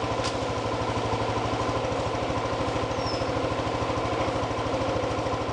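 ATV engine running steadily at low speed, with an even, unchanging beat.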